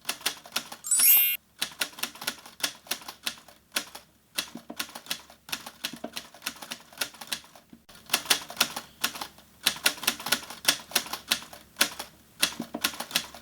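Typewriter keys clacking in quick, irregular runs, with a few short breaks. A brief rising zip comes about a second in.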